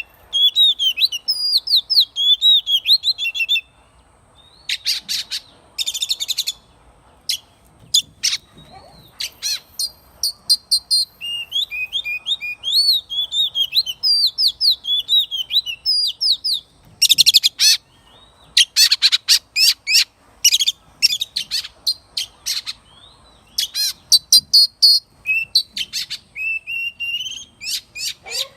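Oriental magpie-robin singing: a fast, varied run of clear whistled phrases broken by bursts of scratchy, rattling notes, with a brief pause about four seconds in.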